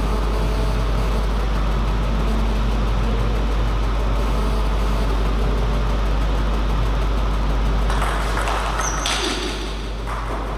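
Steady low hum and rumble with a constant haze of background noise, and a brief burst of hissing noise about eight seconds in.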